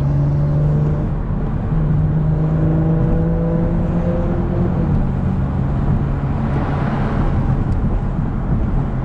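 BMW 440i's turbocharged 3.0-litre B58 inline-six, on its stock tune, pulling under acceleration, heard from inside the cabin. The engine note dips briefly about a second and a half in, then runs on. After about five seconds it fades, leaving tyre and wind noise.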